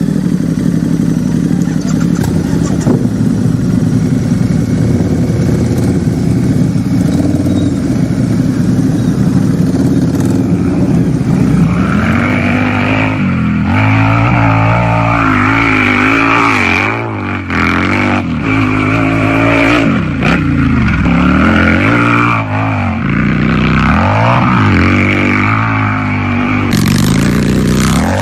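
Harley-Davidson V-twin motorcycle engine running steadily for about the first ten seconds. Its pitch then rises and falls repeatedly as the throttle is worked.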